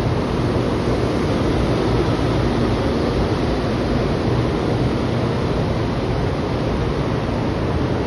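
Steady rushing hum of a Taiwan High Speed Rail train standing at the platform before departure, its air-conditioning and cooling fans running, with a faint low drone underneath and no change in level.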